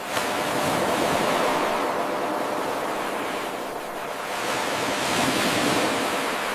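Ocean waves washing in, a steady hiss of surf that swells near the start and again past the middle, then eases. Just at the start there is a brief click where the looped eight-second wave recording joins itself.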